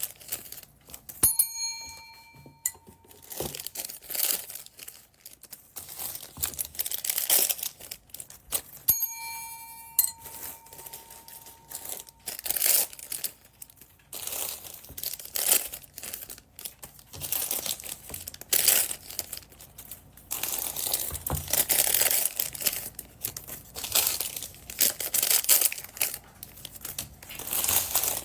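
Plastic bead packaging bags crinkling and rustling as they are handled and opened. A bell-like ding rings twice, about a second in and about nine seconds in, each fading over a second or two.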